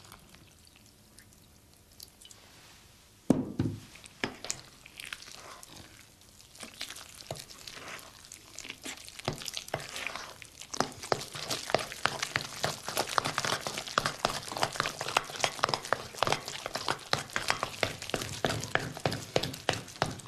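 A spoon mixing a wet chocolate pudding batter of flour, cocoa, treacle and milk in a mixing bowl: a fast run of short clicking, knocking strokes that grows busier from about seven seconds in. A single thump about three seconds in.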